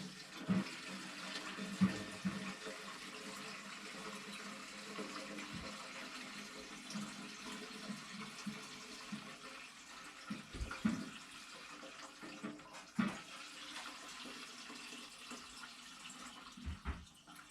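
Kerosene running steadily into the fuel tank of a Chofu kerosene-fired bath boiler while it is filled, a vigorous pouring flow, with a few small knocks in the second half.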